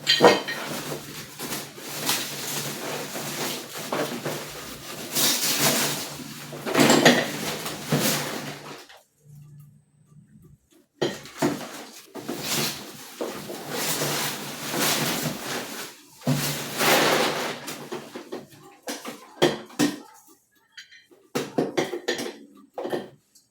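A coffee maker being unpacked by hand: rustling and scraping of its box, molded pulp packing inserts and wrapping, with knocks and clatters as pieces are lifted out. A pause of about two seconds falls partway through, and there are several short, sharp knocks near the end.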